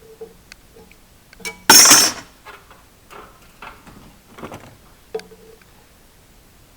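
Metal clinks and knocks from handling at the bench grinder, with one loud, short rasping burst about two seconds in.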